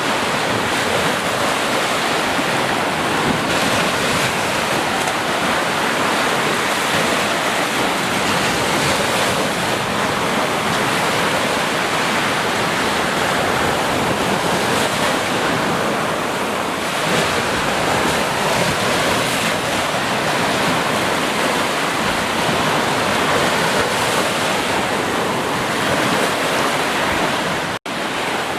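Ocean surf: a steady wash of waves breaking, with a momentary dropout near the end.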